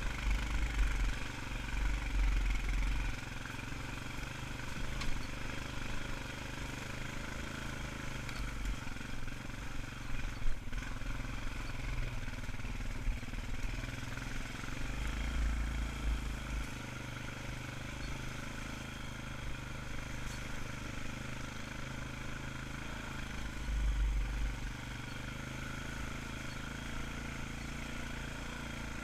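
ATV engine running steadily at a slow pace while climbing a steep trail. A few brief low rumbles and one sharp knock come through over the engine.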